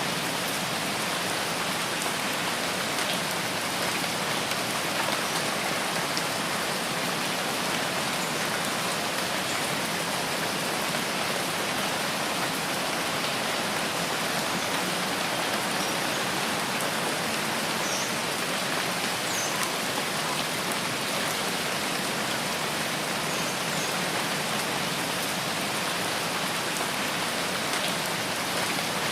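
Steady rain falling in a forest, an even hiss of drops that holds at one level throughout.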